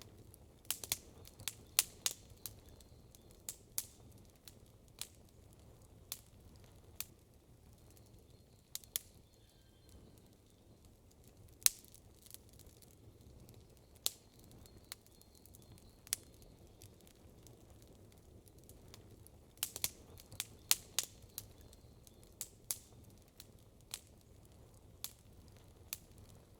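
Wood campfire crackling: irregular sharp snaps and pops over a low steady background, with quick runs of snaps about two seconds in and again about twenty seconds in.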